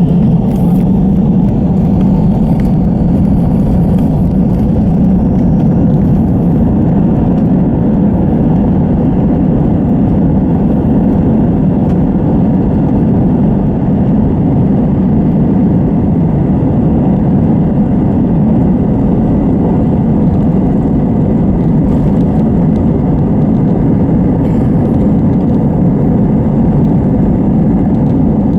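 Airbus A320 cabin noise: a loud, steady rumble of jet engines and airflow heard from inside the cabin, with a faint steady whine.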